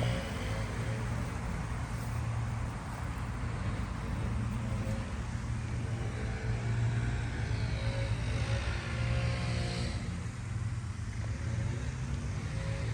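Steady low rumble of a motor vehicle running, an even hum without clear revving.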